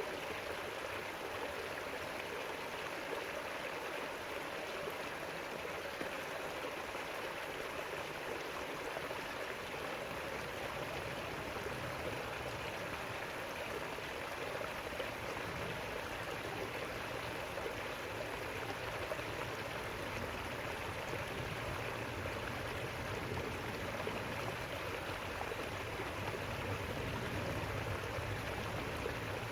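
River water rushing and babbling over rocks, a steady even flow.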